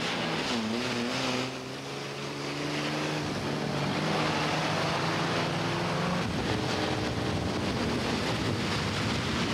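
Vehicle engine running under acceleration, its pitch slowly rising and then dropping back about six seconds in, over a steady hiss of tyres on wet asphalt and wind.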